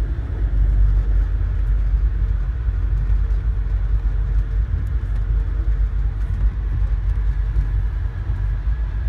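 Steady low rumble of an Amtrak passenger train running along the track, heard from inside the car.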